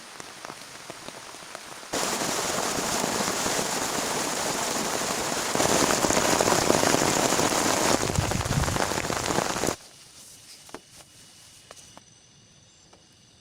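Rain falling, with abrupt jumps in loudness: a steady patter with distinct drops, then a heavy downpour from about 2 s that grows louder midway, cutting off suddenly near 10 s to faint scattered drips.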